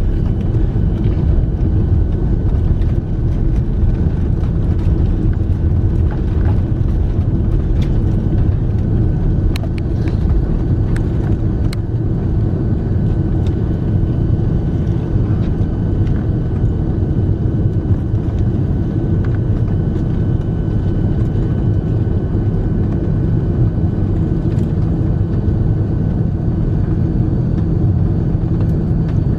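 Airbus A340-300 heard from inside the passenger cabin: a loud, steady rumble from its four CFM56 engines and the airframe, with a faint steady whine and scattered small clicks and rattles.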